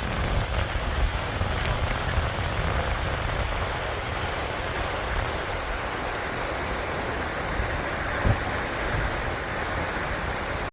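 Steady rushing noise with an uneven rumbling low end, and a single short knock a little past eight seconds in.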